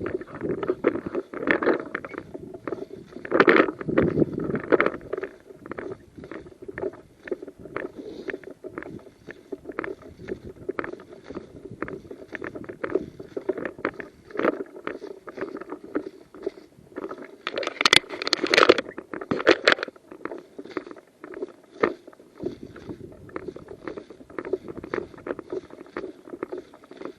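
Irregular footsteps and rustling of clothing and kit close to the microphone as a person walks, with a louder, brighter stretch of rustling about eighteen to twenty seconds in.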